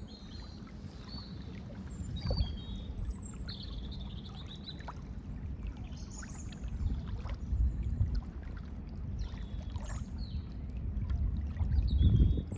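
Water lapping and washing at a lakeshore, a low churning that swells now and then. Small birds chirp in short high calls throughout.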